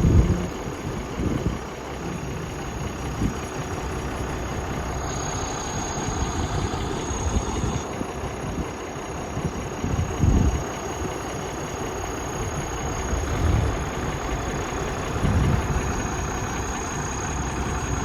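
Heavy diesel engine idling steadily, with a few brief low thuds in the second half.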